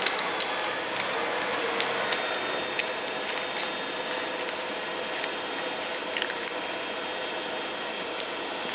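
Cats eating treats: small scattered clicks and chewing sounds, with a short cluster of clicks about six seconds in, over a steady room hum.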